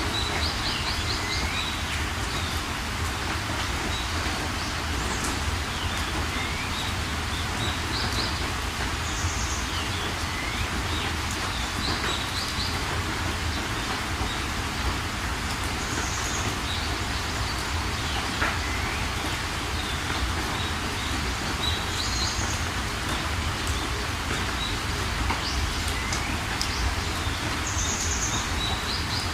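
Steady rain falling, with birds chirping over it: short high chirps, brief upward calls and quick trills every few seconds.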